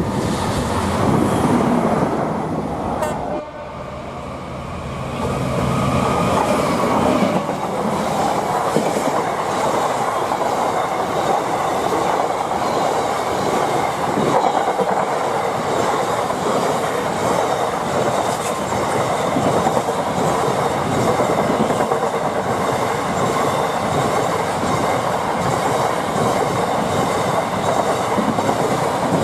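A train running past on the line at a level crossing: a long, steady rumble and clatter of wheels on the rails that builds up after a brief lull about three seconds in and carries on for over twenty seconds.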